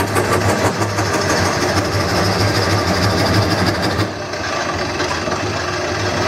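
Wood lathe running with a steady motor hum while a turning tool cuts into the spinning wooden bowl blank, giving a rough scraping noise; the cutting noise eases briefly about four seconds in.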